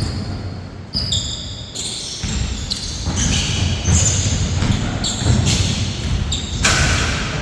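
Basketball game play: a ball bouncing with repeated thuds and basketball shoes squeaking sharply on the court floor several times.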